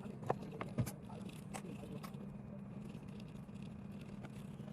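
Small sharp clicks and light scrapes of repair tools on a phone, a few in the first two seconds, over a steady low hum.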